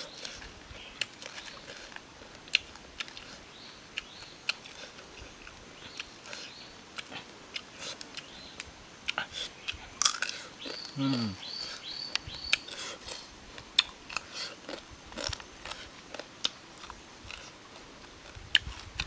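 Close-up crunching and chewing of cooked food being eaten by hand, a string of sharp crisp clicks. About ten seconds in there is a brief high chirping and a short low sound that falls in pitch.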